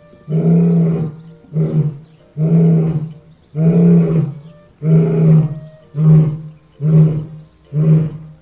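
Lion roaring in the grunting part of a roar bout: a series of deep, loud grunts about one a second, becoming shorter toward the end.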